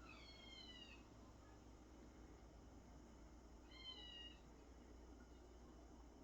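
Two faint, high-pitched cat meows: one about a second long at the start, slightly falling in pitch, and a shorter one about four seconds in.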